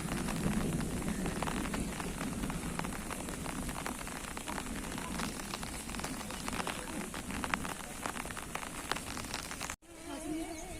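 Heavy rain pattering on hard surfaces: many sharp drop impacts over a steady rushing hiss during a storm. It cuts off abruptly near the end.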